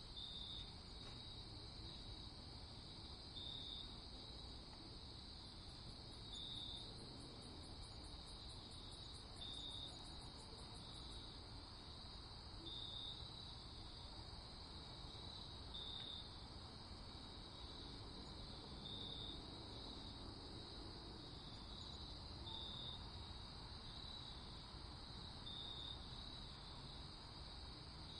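Night insects, crickets, trilling steadily at a high pitch, with a slightly louder chirp about every three seconds over a faint low background hiss.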